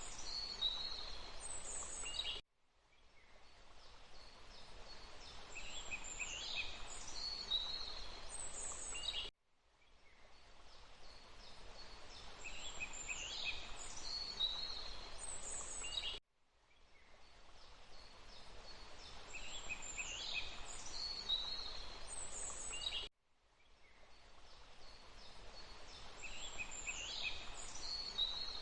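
Looped forest ambience: songbirds calling high and bright over a steady rush of running water. The same few-second stretch repeats about every seven seconds, each time cutting off abruptly and fading back in.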